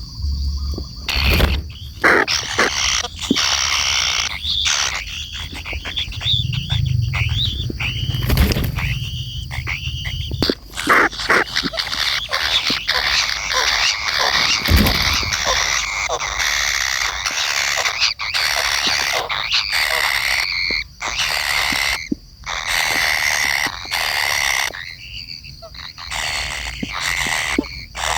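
Kingfisher (tengkek kayu) calling: rapid runs of harsh, chattering calls that fall in pitch, repeated almost without pause.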